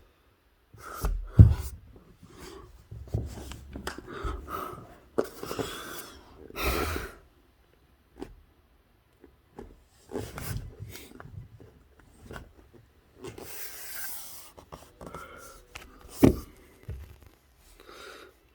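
Handling noise close to the microphone: irregular knocks, rubs and short breaths as a handheld camera is moved, with a sharp thump about one and a half seconds in and another near the end.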